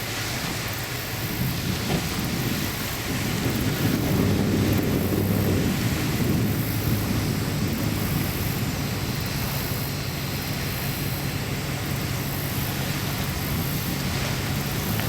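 Steady low rumble with a deep engine drone that sets in about four seconds in and holds, under wind noise on the microphone.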